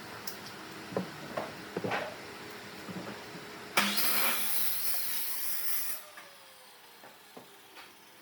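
A few light knocks of wood being handled, then a loud hiss that starts abruptly a little before halfway and cuts off about two seconds later, followed by a few faint ticks.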